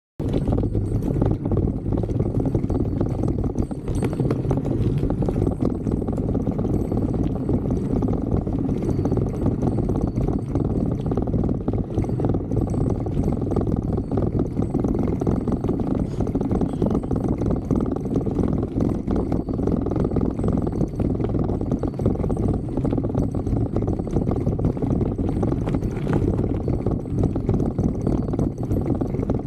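Bicycle descending a rough mountain trail: a steady, dense rumble from the tyres and frame, with constant rattling clicks.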